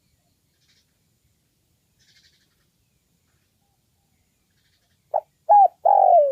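Spotted dove cooing. Near the end, after about five seconds of silence, one phrase begins: two short notes, then a longer falling coo.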